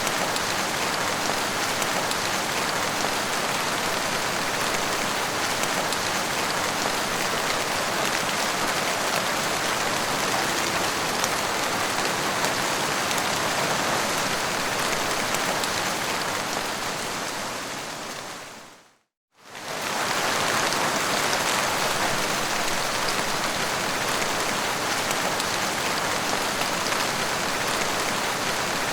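Steady, heavy rain falling in an even hiss. About two-thirds of the way through it fades out over a couple of seconds to a brief moment of silence, then comes straight back in at full level: a loop point in the recording.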